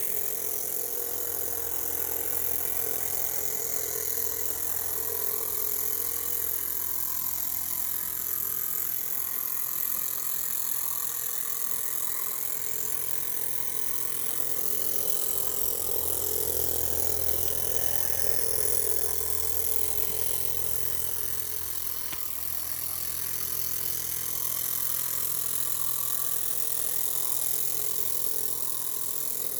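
Miniature live-steam traction engine running: a steady hiss of steam over a continuous mechanical rattle from its moving parts.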